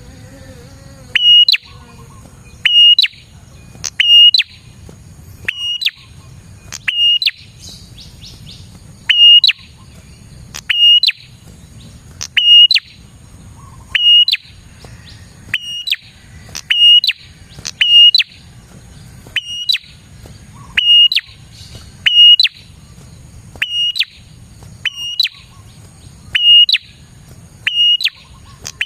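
Prenjak (prinia) calling vigorously: a loud, sharp note with a quick upward flick, repeated about every one and a half seconds, as used for a lure call.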